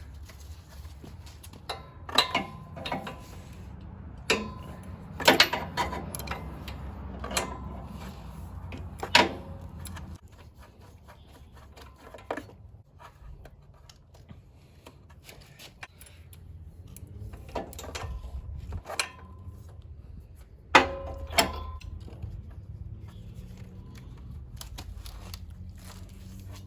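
Scattered metal clicks and clinks of a socket wrench and spark plugs being handled while a spark plug is changed on a mower engine, some of them ringing briefly, with a faint low rumble underneath.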